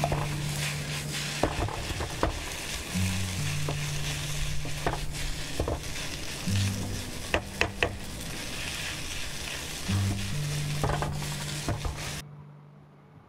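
Crab fried rice sizzling in a pan over a charcoal brazier as it is stirred and tossed with a wooden spatula and metal turner, with scattered sharp clicks of the utensils against the pan; extra soy sauce has gone in to scorch. The sizzle stops abruptly about a second before the end.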